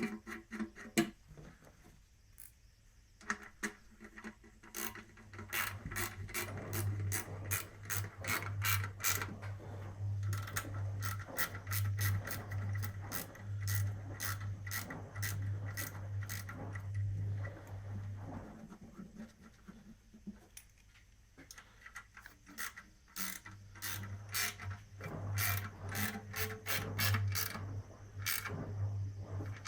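Ratchet wrench clicking in quick runs as a fastener is worked, with pauses between the runs. A low steady hum comes and goes underneath.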